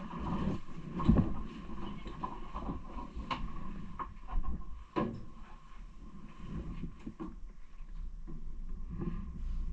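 Bicycle rattling and knocking while being ridden, over a low steady rumble. One louder knock comes about a second in.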